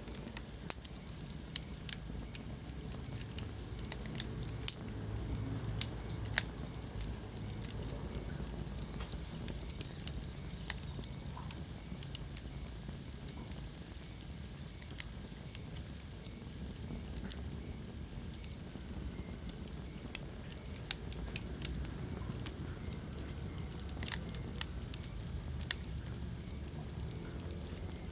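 Wood fire burning in a fireplace, a steady low rumble with irregular sharp crackles and pops.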